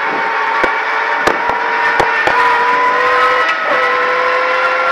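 Ford Fiesta ST rally car's engine running hard at high revs, heard from inside the cabin; its pitch drops a little about three and a half seconds in and then holds. Several sharp knocks come through the car in the first couple of seconds.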